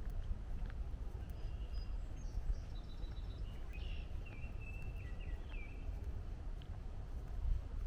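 Wild songbirds calling in a string of short, high chirps through the middle few seconds, over a steady low rumble of distant highway traffic.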